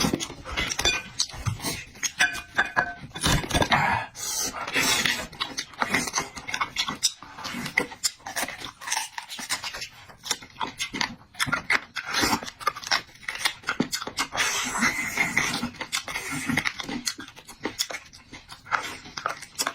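Close-miked eating sounds: irregular wet chewing, smacking and slurping of meat and noodles, with quick breaths between bites.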